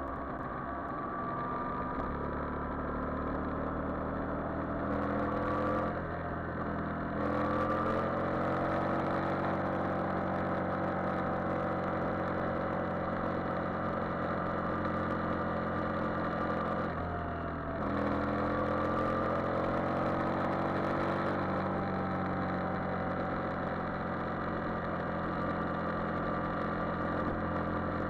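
Yamaha Virago XV400's air-cooled V-twin engine pulling the motorcycle along the road, its note rising and falling with the throttle. It breaks off briefly twice, about six seconds in and again near the middle, each time like a gear change, before the pitch climbs again.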